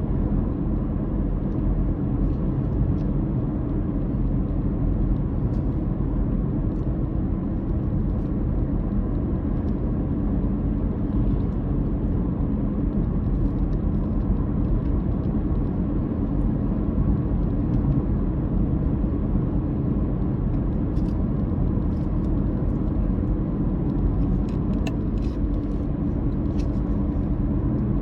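Car driving along at a steady pace: the engine drones evenly under a low road rumble, with a few faint clicks near the end.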